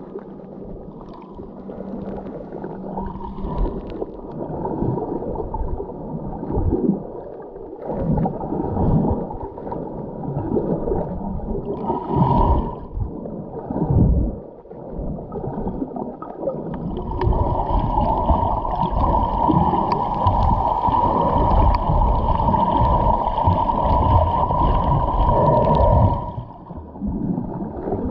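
Underwater sound of scuba breathing through a regulator: uneven surges of exhaled bubbles gurgling, then a long unbroken stream of bubbles in the second half that cuts off sharply near the end.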